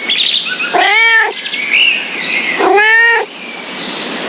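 A domestic cat meowing twice, each meow a short call that rises and falls in pitch, over a steady background hiss.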